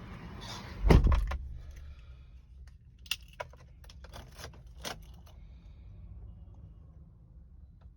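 A car door shutting with a heavy thud about a second in, followed by several short clicks and jingles of keys.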